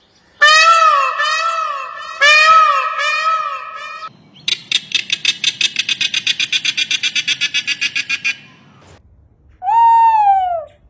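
Bird calls in three parts. First come repeated arching, rising-and-falling pitched calls, then a rapid pulsed rattle of about eight notes a second, then one long falling call near the end.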